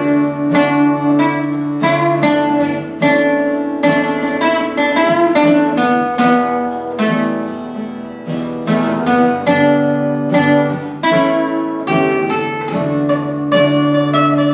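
Acoustic guitar playing an instrumental break, picked notes ringing one after another over held chords.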